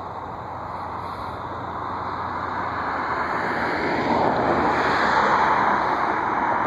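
Rushing roar of a passing jet aircraft, building steadily and loudest about five seconds in.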